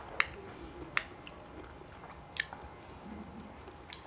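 Close-miked chewing and mouth sounds of people eating fruit salad, with four sharp clinks of a metal spoon against a small glass. The loudest clink comes just after the start, and the others come at about one second, two and a half seconds and near the end.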